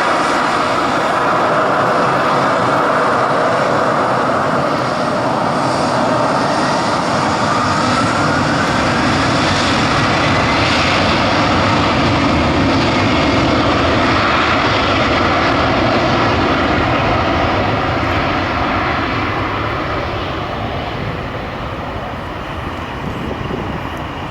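Embraer Lineage 1000 business jet's twin General Electric CF34-10E turbofans at takeoff power, loud and steady, fading away over the last several seconds as the jet departs.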